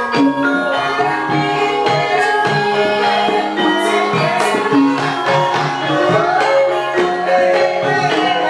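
Banyumas-style Javanese gamelan ensemble playing: bronze metallophones ring in overlapping sustained notes, driven by kendang hand-drum strokes, with a short sliding melodic line twice in the middle.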